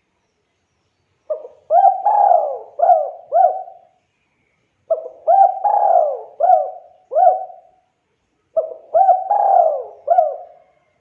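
Spotted dove (tekukur) cooing its song: three repeated phrases of about five hooting, arching notes each, a few seconds apart.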